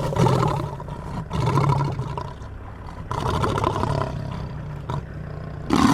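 Lion roaring: a series of long, rough roars, one after another.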